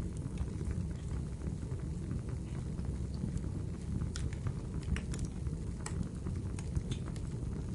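Wood fire crackling in a fireplace: a steady low rumble of burning with scattered sharp pops and crackles, more of them in the second half.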